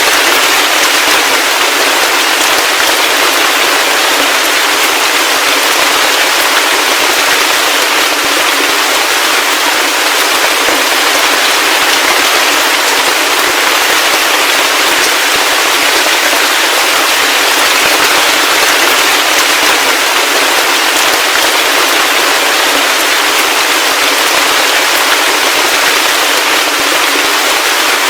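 Heavy rain falling steadily, a dense crackling patter of many close drops, thin with no low rumble.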